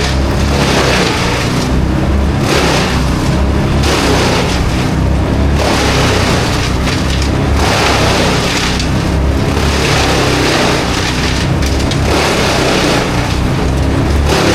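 A heavy engine running loud and steady, with a rushing noise over it that swells and fades every second or two.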